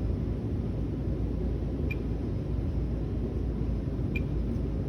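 Residential forced-air furnace running with its blower on, a steady low rumble and rush of air. Two faint short high beeps come about two seconds apart.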